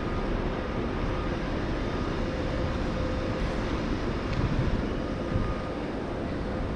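ÖBB Railjet train running at speed: a steady rolling rumble with a faint steady whine.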